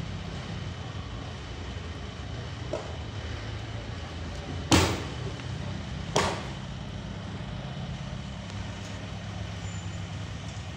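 Sawmill engine running steadily at a low hum, with two loud knocks about a second and a half apart near the middle.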